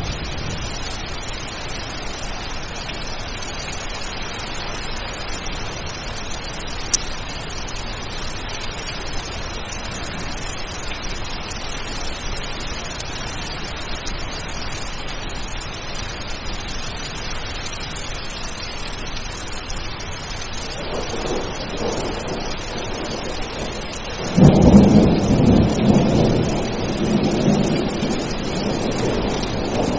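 Steady rain falling, with thunder: a low rumble builds about two-thirds of the way through, then a sudden loud thunderclap rolls and slowly fades near the end.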